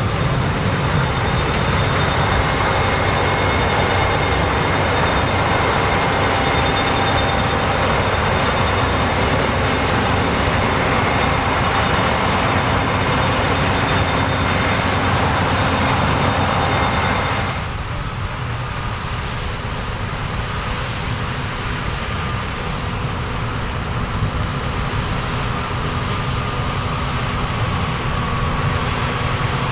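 Combine harvester running in standing corn: a steady drone of engine and threshing machinery with faint steady whining tones. A little over halfway through the sound drops suddenly, becoming quieter and duller.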